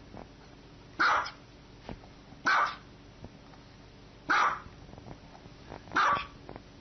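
A dog barking four single barks, evenly spaced about one and a half seconds apart.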